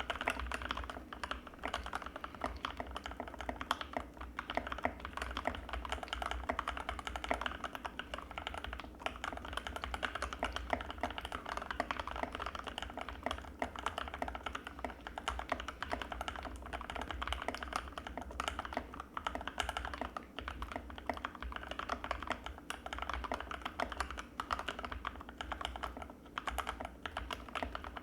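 Continuous fast typing on an Anne Pro 2 mechanical keyboard with Gateron Red linear switches, a dense run of key clacks and bottom-outs.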